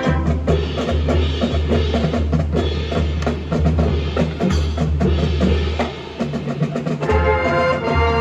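High school marching band playing, with the percussion section striking steadily over sustained wind and brass chords; the brass chords grow louder and fuller about seven seconds in.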